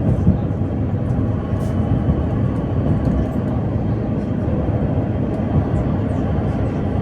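Ride noise inside a PKTS 71-931M Vityaz-M tram in motion: a steady low rumble from the wheels on the rails and the running gear, with a few faint ticks and rattles.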